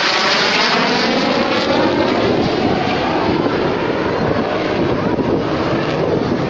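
JF-17 Thunder fighter jet's single turbofan making a loud pass overhead: a dense jet rush with a sweeping, shifting whoosh as it goes by, easing a little toward the end. Wind buffets the microphone.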